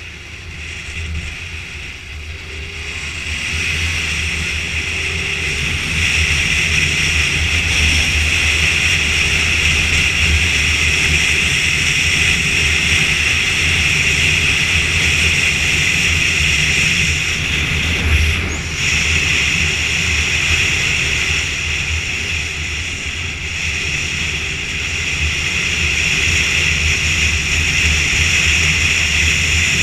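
BMW motorcycle under way, its engine and road noise running steadily. The sound builds over the first few seconds, then holds.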